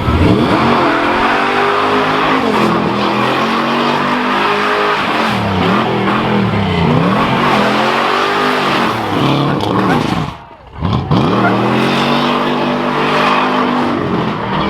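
Car engine revved hard, over and over, during a burnout, its pitch rising and falling, over the hiss of spinning tyres. The sound drops away briefly about ten seconds in, then comes back.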